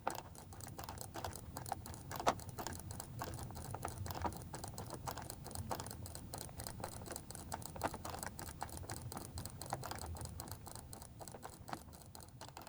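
Rapid, irregular clicking of a computer mouse and keyboard, with one louder click about two seconds in.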